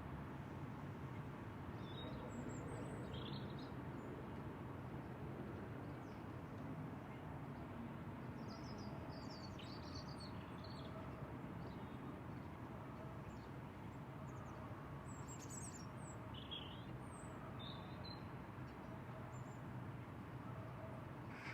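Faint outdoor ambience: a steady low background hiss with small birds chirping now and then in short high bursts, in three loose clusters.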